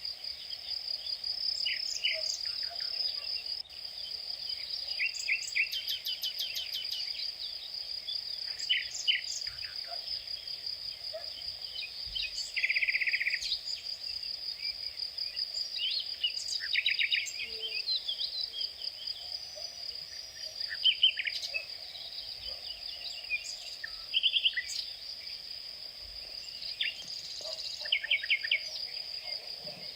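Outdoor insect and bird chorus: a steady, high-pitched insect trill runs throughout, while birds give short chirps and quick trills on top, with a louder buzzy trill about 13 seconds in.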